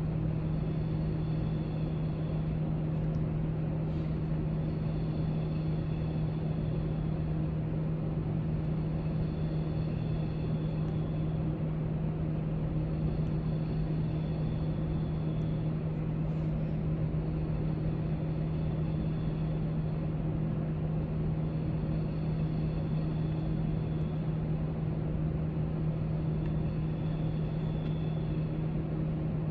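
Steady background hum of a library room: a constant low drone with a hiss over it, a faint high whine that comes and goes every few seconds, and a few faint ticks.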